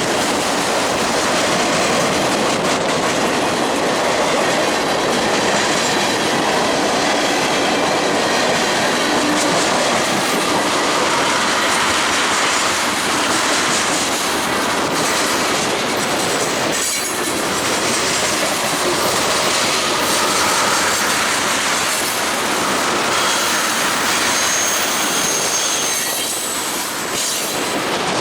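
A freight train's cars rolling past, their steel wheels clattering over the rail joints, with a thin wheel squeal now and then.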